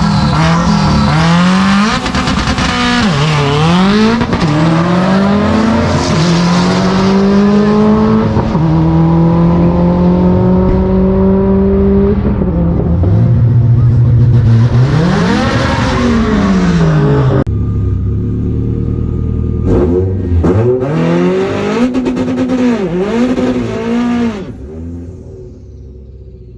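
Turbocharged Subaru WRX STI flat-four engine accelerating hard through the gears on a drag pass. Its pitch climbs and drops back at each upshift for about twelve seconds, then it lifts off and slows, with a few short throttle blips near the end.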